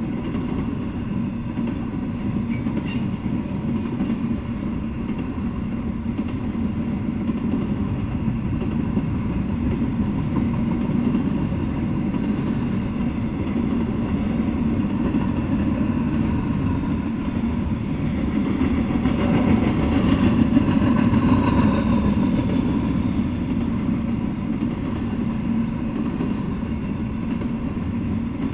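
Double-stack intermodal freight train rolling past, a steady rumble of wheels on rail that swells a little about two-thirds of the way through.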